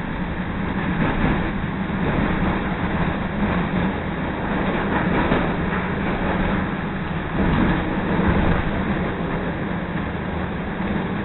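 CTA Red Line rapid-transit train running at speed, heard from aboard the car: steady rumble and noise of the wheels on the rails.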